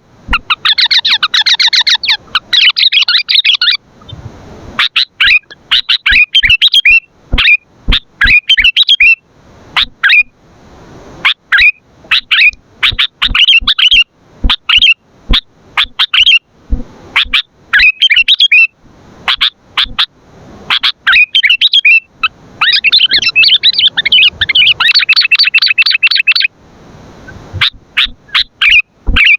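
Sooty-headed bulbul (kutilang) singing loudly: short, bright chirping phrases repeated about once a second, breaking into a dense run of rapid chattering at the start and again about two-thirds of the way through.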